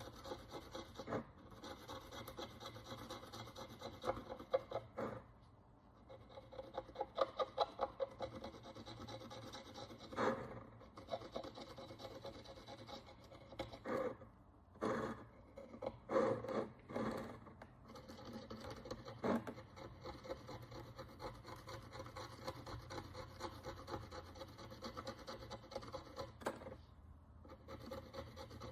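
A hand tool scraping and rubbing the thick crust of dirt and oxidation off a Roman bronze follis, in short scratchy strokes, some in quick runs and a few louder scrapes.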